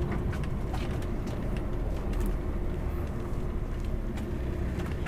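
Lorry cab interior on the move: the DAF XF106's straight-six diesel engine running with a steady low drone and road noise, with a few faint ticks and rattles.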